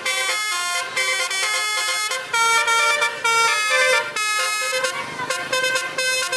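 Truck basuri horn, a multi-trumpet musical air horn, playing a tune. It sounds a run of held notes that step up and down in pitch, with a few short breaks between phrases.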